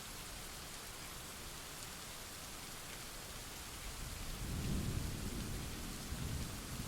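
Steady rain falling, with a low roll of thunder building about four seconds in, peaking a second later and rumbling on to the end.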